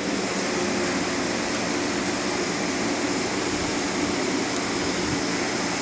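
Steady rush of air with a faint hum from a waste oil furnace as pressure goes back into its system, rising in at the start and then holding even, before the burner has lit.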